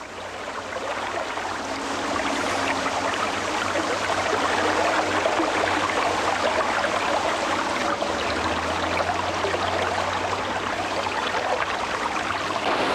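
Rushing, churning water of a fast stream or falls, a steady rush that fades up over the first couple of seconds.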